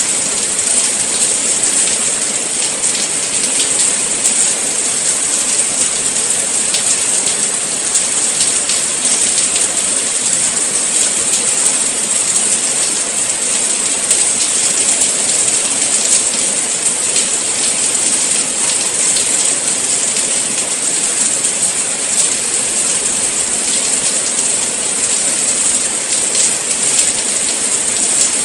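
Steady rain falling, a dense even hiss full of fine drop patter, with no change in strength.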